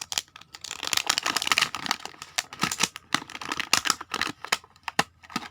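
Toy packaging being unwrapped by hand: plastic and foil wrapping crinkling and crackling in quick irregular bursts.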